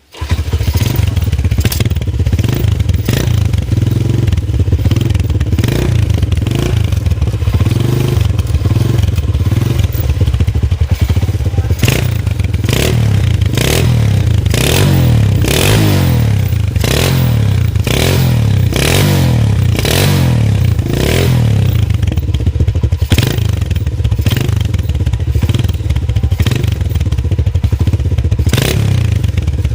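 Honda S90Z's small single-cylinder four-stroke engine running loud through a GL kleper aftermarket exhaust, its throttle blipped over and over so the pitch rises and falls, with sharp exhaust cracks on the revs.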